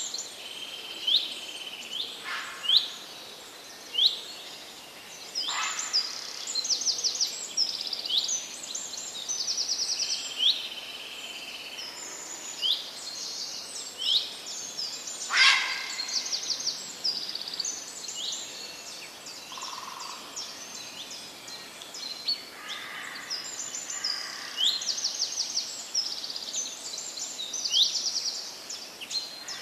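Birds singing and chirping continuously: many short rising chirps and quick trills from several birds, over a steady outdoor background hiss.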